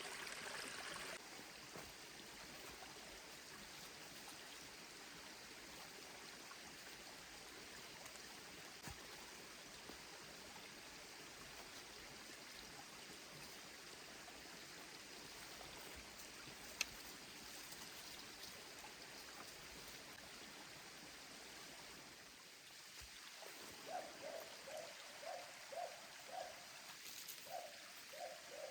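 Mountain stream flowing, a faint steady rush of water. A single sharp click comes about halfway through, and near the end a run of short repeated sounds, about two a second.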